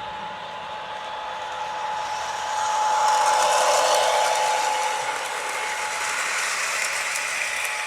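Lionel GP38 O gauge model diesel locomotive running on track, its motor and gears whirring with a steady whine and wheel clatter. It grows louder about three seconds in as it passes closest, then eases off.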